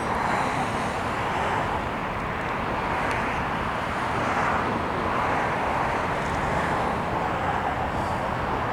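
Steady outdoor background noise, a traffic-like hiss and hum that holds even throughout with no distinct events.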